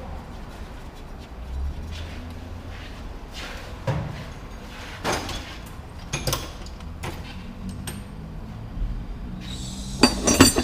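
Scattered knocks and clatter of tools and metal parts being handled during a wheel bearing job, over a low steady hum. A louder burst of clatter comes near the end.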